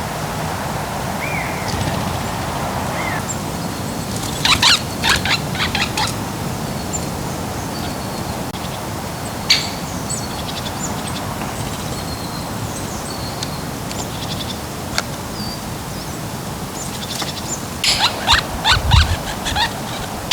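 Songbirds calling in woodland: scattered faint short chirps and whistles over a steady background hiss, with two brief bursts of sharp clicking, one about four seconds in and one near the end.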